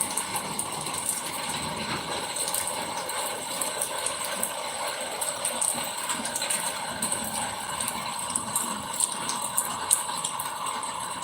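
Rain and hailstones falling and striking surfaces: dense, irregular small ticks over a steady hiss.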